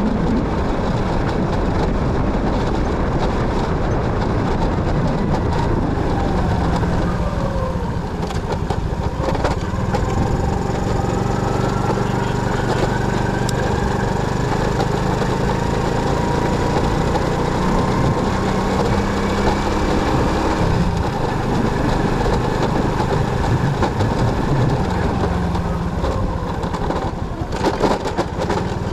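Motorcycle on the move: its engine running under a constant rush of road and wind noise, the engine pitch falling and then rising again as the speed changes.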